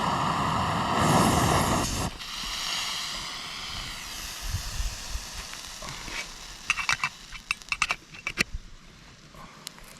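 Small portable gas stove burner running, then shut off abruptly about two seconds in. The just-cooked noodles and water then hiss faintly as the boiling dies down, followed near the end by a quick run of light clicks and clinks.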